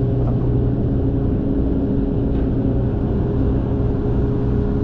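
An engine running steadily at constant speed: a low hum with a few even, unchanging tones over a rumble.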